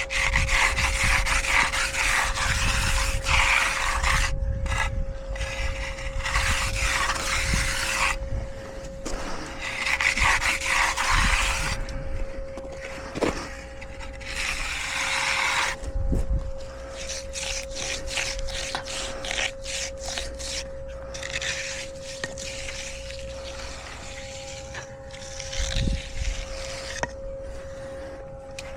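Steel hand edger scraping and rubbing along wet concrete in repeated stretches of strokes, with pauses between them, over a faint steady hum.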